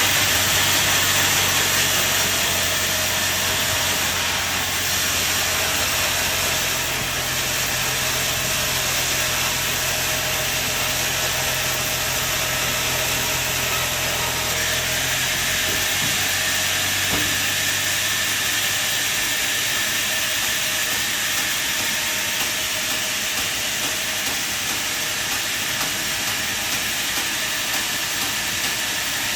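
Sawmill running and sawing timber: a steady hissing cutting noise over a low machine hum, and the hum fades out about halfway through.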